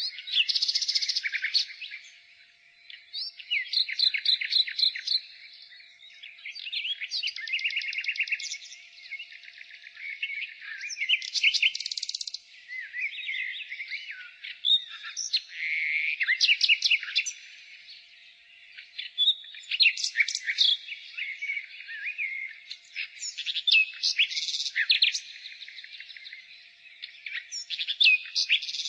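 Nightingale singing: a string of varied phrases, each a second or two of rapid repeated notes and trills, separated by short pauses.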